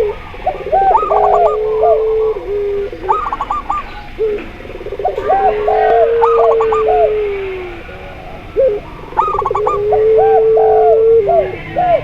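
Several doves cooing together: zebra dove, spotted dove and a long-cooing 'puter pelung' dove. Three long, steady low coos, each held a second or two, are overlaid with quicker, higher, stuttering coo phrases.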